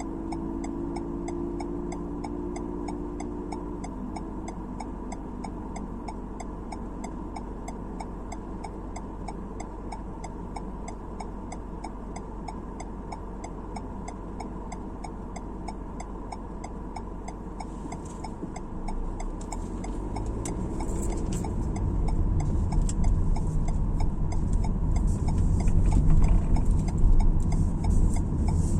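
Car cabin drive noise: a low hum with a regular ticking and a short held tone in the first few seconds. About two-thirds of the way in, road and tyre rumble swells as the car speeds up.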